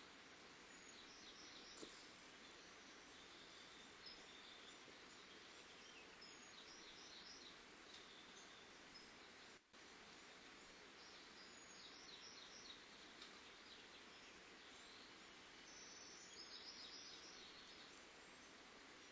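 Faint steady hiss with small birds chirping faintly in short twittering bursts a few times.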